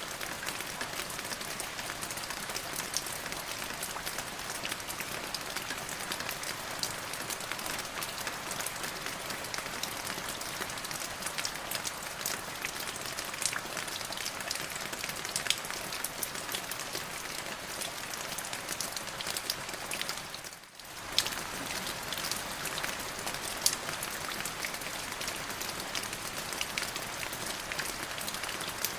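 Steady rain falling, with many individual drops ticking sharply over a continuous hiss. About two-thirds of the way in, the sound briefly fades down and comes straight back.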